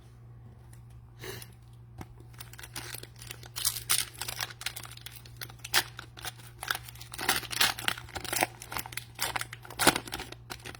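Cellophane wrapper of a trading card pack being torn open and crinkled, a rapid run of crackles and rips, over a steady low hum.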